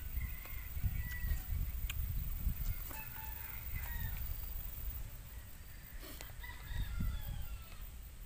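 Faint bird calls, three times, over a steady low rumble.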